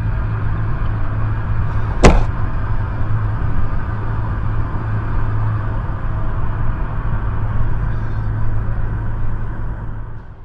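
Steady vehicle engine and road noise with a low hum, and one sharp bang about two seconds in.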